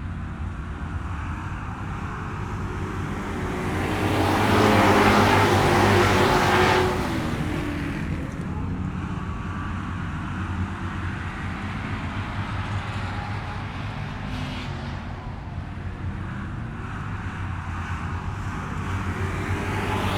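Car engine running steadily. It swells louder with a rush of noise for a few seconds, drops back suddenly, then holds an even note.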